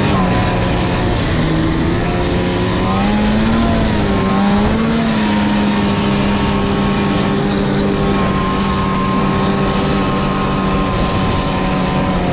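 Snowmobile engine running at speed, with a steady rushing noise beneath it; its pitch wavers up and down a few seconds in, then holds steady.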